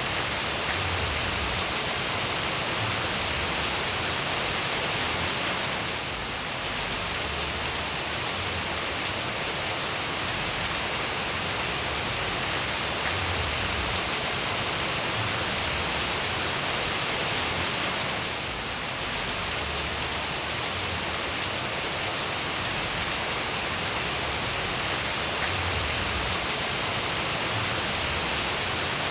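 Steady rain falling, an even, dense hiss of many drops, with two brief slight dips in level about six and eighteen seconds in.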